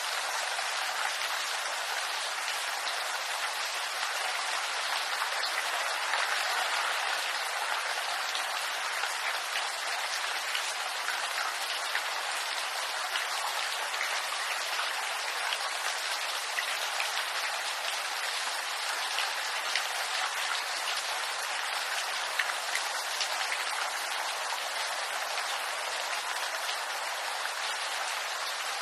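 Steady rain falling on bamboo foliage: a continuous hiss of drops with many small, sharp patters of individual drops on the leaves.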